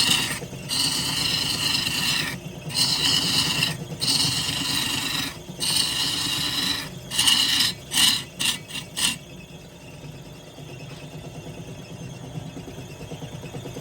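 A tool rasping against wood turning on a wood lathe, in repeated strokes of about one to one and a half seconds with short breaks, over a steady low hum. Near the end the strokes turn into a few quick ones, then stop about nine seconds in, leaving only the lower hum.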